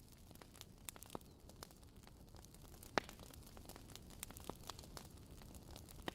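Wood fire crackling: irregular sharp pops and snaps over a low steady hiss, one louder pop about halfway through.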